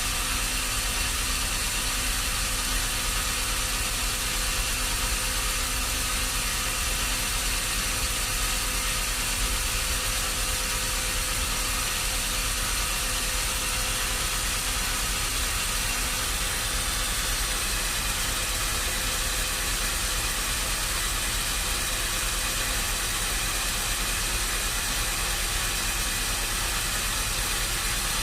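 A machine running steadily, with a constant hiss over several steady hum tones; nothing starts, stops or changes.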